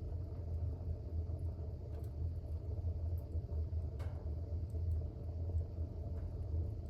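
A fire burning in a fireplace: a steady low rumble with faint scattered crackles and one sharper pop about four seconds in.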